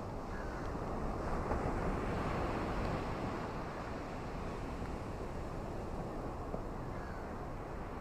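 Ocean surf washing on a shore with wind: a steady low rushing that swells as a wave comes in about a second in, then settles.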